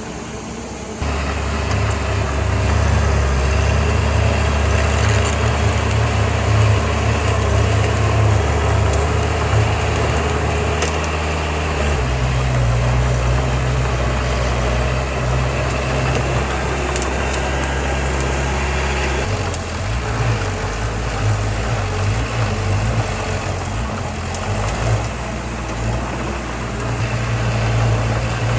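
Heavy diesel engines of earthmoving machinery running steadily at a low, throbbing pitch. The engine note changes abruptly about a second in, again about twelve seconds in, and about nineteen seconds in.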